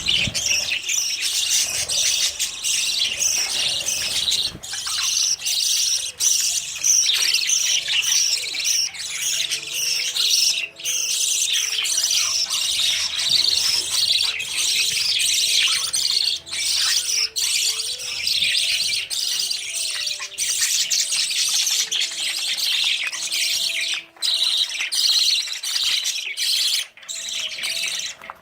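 Budgerigars chirping and chattering together in a dense, unbroken chorus of high chirps and squawks.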